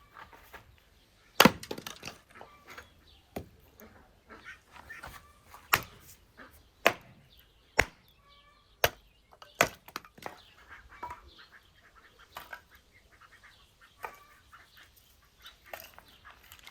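A series of irregular sharp knocks and cracks, about a dozen, the loudest a little over a second in. A few faint high chirps come around the middle.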